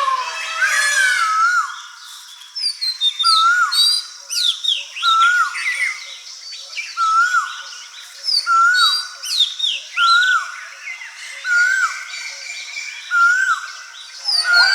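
Several wild birds calling together in dry scrub forest. One repeats a short whistled note that rises and falls, about once a second, while others give quicker, higher chirps and trills over it.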